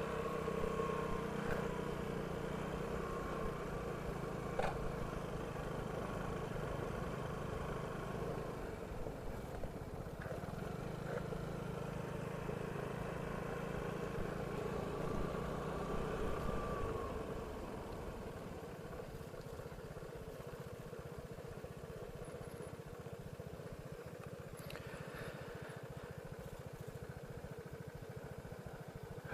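Vespa scooter engine running steadily while riding, growing quieter about seventeen seconds in as it eases off.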